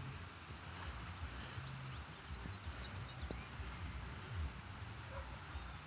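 A steady high-pitched insect trill, with a bird giving a quick run of chirps about one to three seconds in, over a low rumble.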